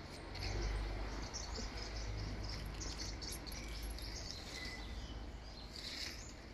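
Garden ambience: scattered short high bird chirps, with one brief whistled note a little past the middle, over a low steady rumble.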